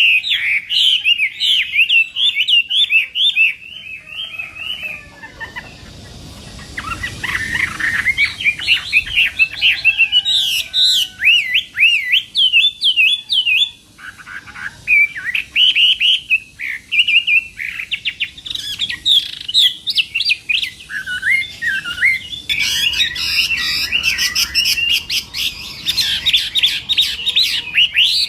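Hwamei (Chinese melodious laughingthrush) singing a long, varied song of fast, rising and falling whistled notes, softer for a few seconds about five seconds in.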